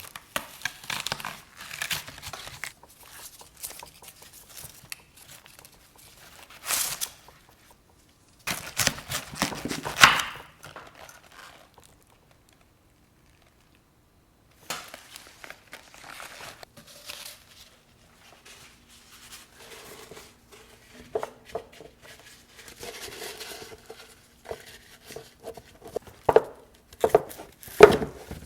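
Wrapping material crinkling and tearing as it is handled, in irregular bursts with a couple of sharper rips. There is a short silent gap midway, then a faint steady hum under more rustling and a few knocks near the end.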